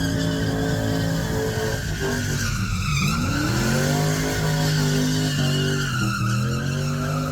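Car burnout: the engine is held at high revs while the rear tyres spin and squeal. The engine pitch dips about two seconds in and again about six seconds in, then climbs back each time.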